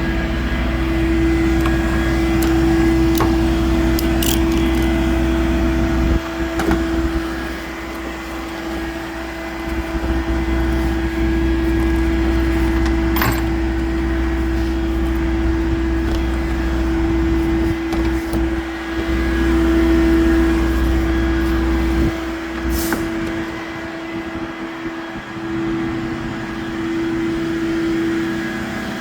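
Tow truck engine running steadily, with a constant hum and a low rumble that eases off about six seconds in and again near the end, and a few sharp clicks along the way.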